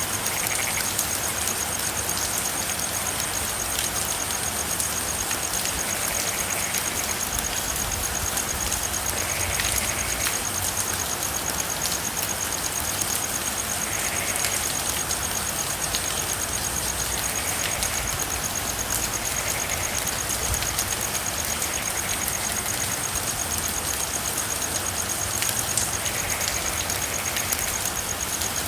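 Steady rain falling, with a continuous high-pitched pulsing trill and soft frog calls every few seconds.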